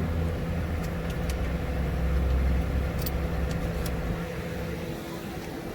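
A car engine idling with a steady low hum and a few light clicks; the low rumble drops away about four seconds in.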